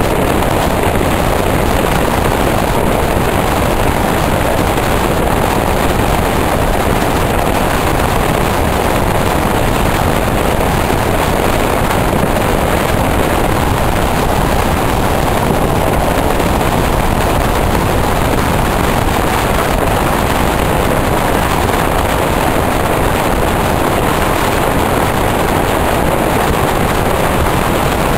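Passenger train running along the track: a steady, even rushing noise that does not change.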